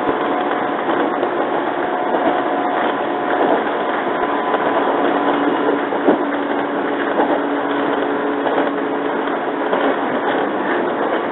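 Onboard running noise of a JR 115-series electric train: a steady rumble and hiss of the car on the rails with a few faint steady humming tones, and one sharp click about six seconds in.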